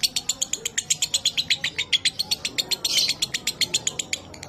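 Lovebird giving a long 'ngekek' chatter: a fast, unbroken run of sharp, dry notes, about ten a second, with a harsher burst about three seconds in.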